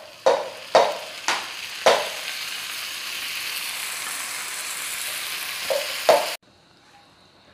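Tomato paste sizzling steadily as it lands in a frying pan of hot oil and fried onions. There are a few sharp knocks of the spatula and bowl in the first two seconds. The sizzle cuts off abruptly a little after six seconds in.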